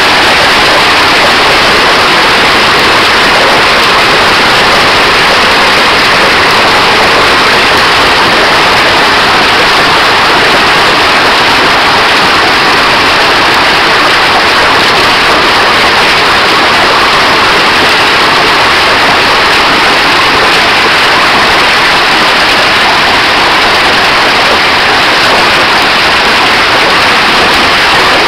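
Heavy hail and rain pelting down in a dense, steady roar of hiss with no separate strikes standing out.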